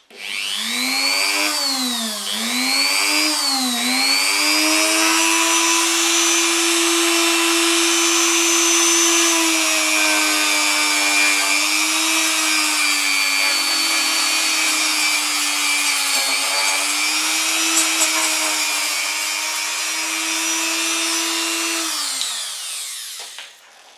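Dremel rotary tool running at high speed with an abrasive brush, cleaning oxidation off a diecast toy car casting. Its whine dips and recovers three times in the first few seconds, then runs steady, and winds down near the end.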